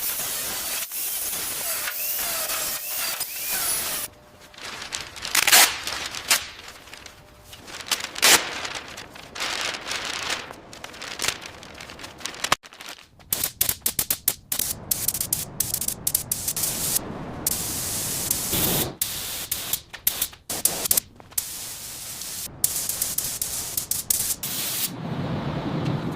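Hissing, spray-like noise in many short snippets that start and stop abruptly one after another, with some scraping among them.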